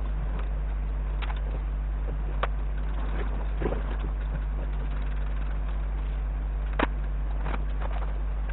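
A steady low hum with a few scattered sharp clicks, the loudest about two-thirds of the way through.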